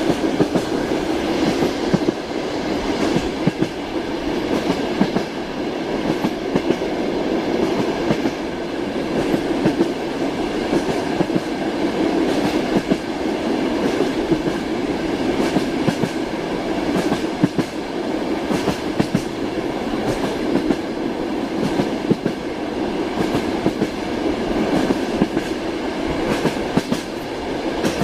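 Train wheels clattering over the rails: a steady rumble with repeated sharp clicks.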